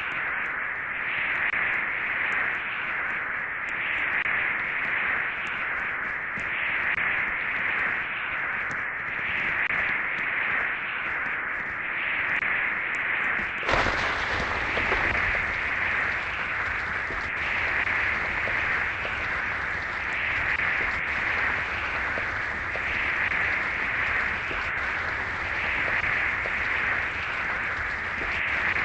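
Steady rushing noise that swells and eases every couple of seconds. About halfway through it changes abruptly, turning brighter, with a low hum added.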